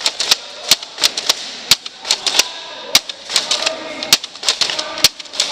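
Nerf blasters firing: sharp, irregular snaps and clicks of shots and darts, several a second, some in quick pairs.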